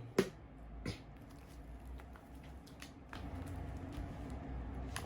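A few light, sharp clicks and taps from handling the plastic parts of a drip coffee maker, two of them within the first second, over a faint low hum.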